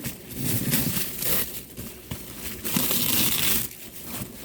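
Packaging crinkling and rustling in irregular bursts as it is handled and pulled open.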